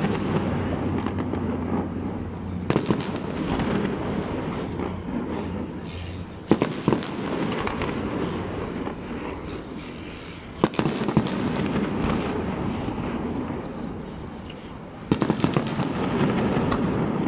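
Fireworks display: four loud bursts of aerial shells, each a cluster of sharp cracks, with continuous crackling and rumble between them.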